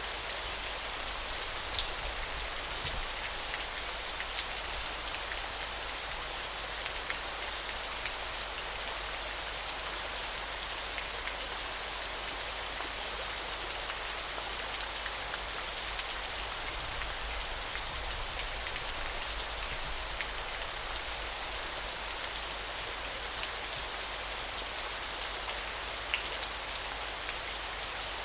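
Steady rushing of flowing river water, with a thin high-pitched buzz that comes and goes in stretches of one to three seconds.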